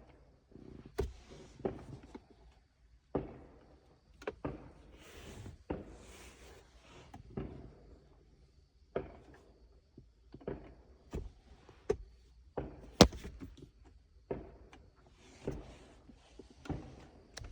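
Irregular clicks and knocks with short stretches of rustling between them, the sharpest knock about thirteen seconds in: parts being handled and worked on by hand.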